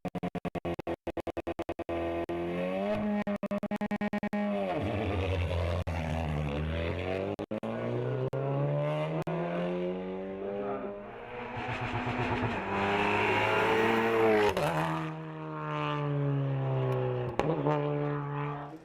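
Race car engine at full throttle going up through the gears: the revs climb and then fall sharply at each of several gear changes. A rapid stutter of pops runs through the first two seconds.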